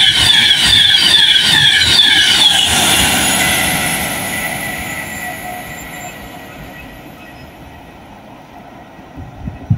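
Class 390 Pendolino electric express running through the station at speed: a loud rush of wheels on rail with a rapid repeating beat for the first couple of seconds. It then fades away steadily as the train draws off, leaving a faint high tone. A sudden thump comes right at the end.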